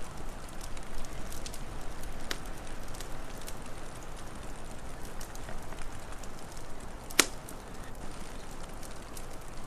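Wood fire crackling over a steady low rumble, with scattered small snaps and one loud pop about seven seconds in.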